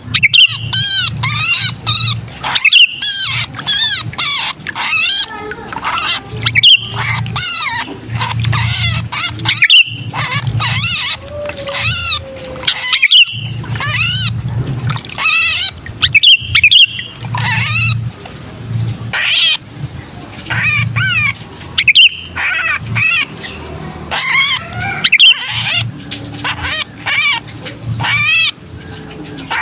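Sooty-headed bulbuls giving harsh, agitated distress calls, the calls of a caught or pinched bird, used as a lure to draw wild bulbuls down. The calls come as rapid chattering bursts broken by brief pauses, over a low hum.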